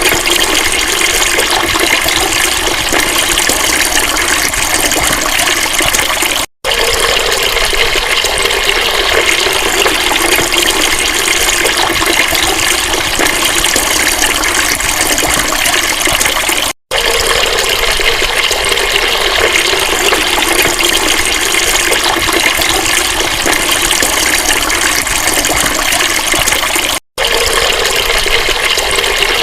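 Steady, loud rush of flowing water, broken three times by a split-second drop-out.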